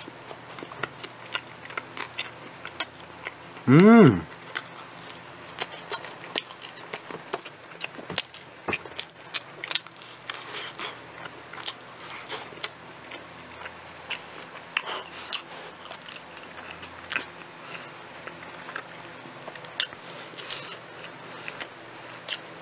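Close-miked biting and chewing of pizza, with many small wet mouth clicks. A short hum from the eater's voice about four seconds in.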